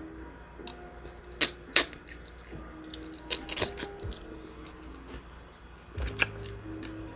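Close-up biting and chewing of a sauced chicken wing: irregular wet crunches and smacks, the loudest about one and a half to two seconds in, around three and a half seconds in, and again near six seconds.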